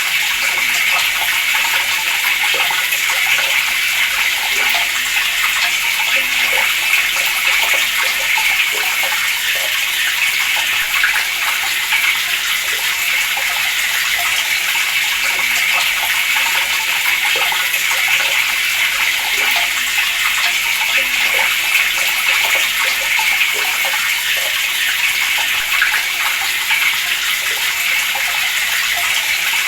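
Water running steadily from a tap, a continuous splashing hiss with small spatters throughout.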